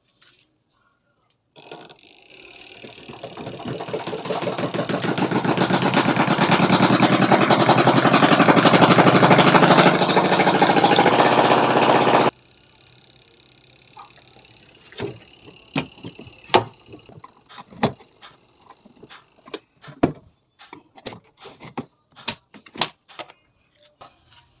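Twin-tub washing machine running with a loud, harsh, fast rattling noise that grows louder as it speeds up and then cuts off suddenly about halfway through. After that come a series of irregular knocks and clicks.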